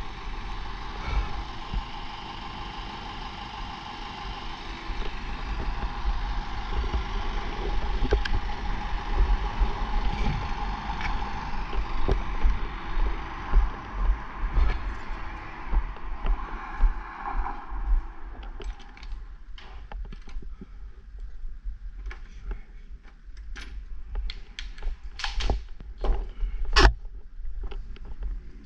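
Yamaha SR500 single-cylinder engine running unevenly after a flooded cold start, then dying about eighteen seconds in. Scattered clicks and knocks follow, with wind rumbling on the microphone.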